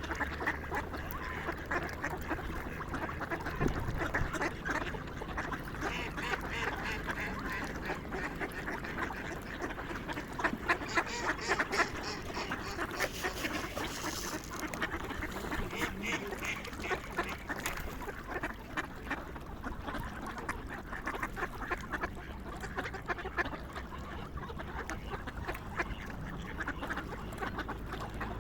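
A flock of swans and other waterfowl calling continuously, many short overlapping calls, busiest near the middle.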